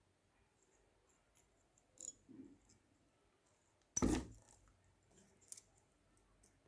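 Quiet, with a few faint clicks and taps and one sharper knock about four seconds in: small objects being handled or set down.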